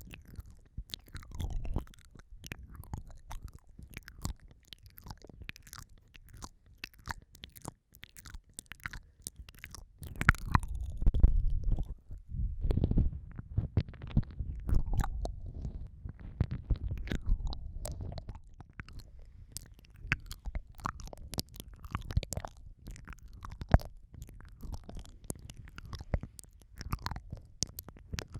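Close-miked wet mouth sounds of ASMR ear eating: lips and tongue smacking and licking at the microphone, with a dense run of sharp clicks over low muffled rumbles. The rumbles swell in bursts and are loudest a little over a third of the way in.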